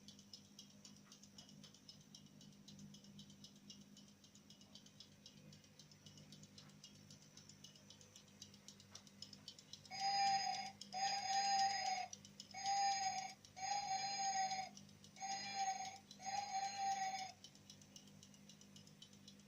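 Electronic alarm beeping: six steady tones of one pitch, in three pairs, each about a second long, starting about halfway in. A faint, fast, even ticking runs underneath throughout.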